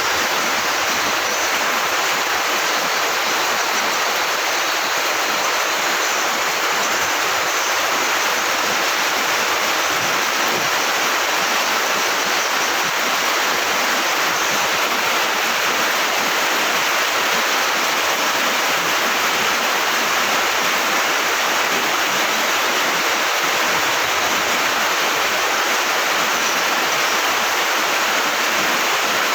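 Heavy rain pouring down steadily: a dense, unbroken hiss of downpour.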